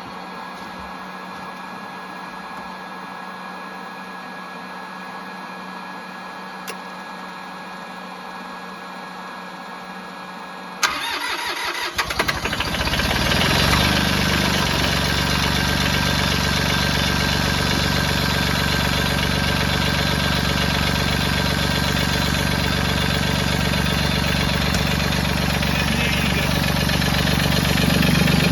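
Heat gun blowing steadily into the tractor's air intake, then about eleven seconds in the Mahindra 1626's diesel engine cranks briefly, catches and runs steadily. It is a cold start with bad glow plugs, helped by heated intake air.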